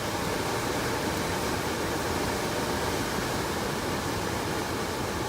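Steady rushing airflow and hum of a Trane heat pump system running in heat mode.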